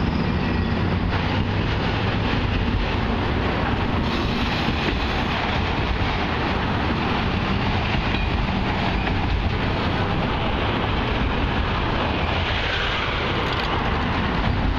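Norfolk Southern freight train of autorack cars rolling steadily past: the continuous rumble and rattle of wheels on the rails.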